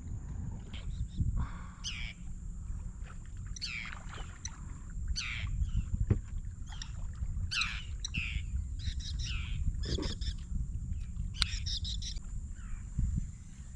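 Birds calling over and over, a string of short chirps that sweep downward in pitch, over a steady low rumble of wind and water.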